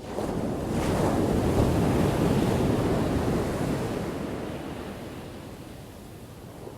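An ocean wave breaking and crashing on the shore, a sudden rush of surf that is loudest for the first few seconds and then slowly fades as the water washes back.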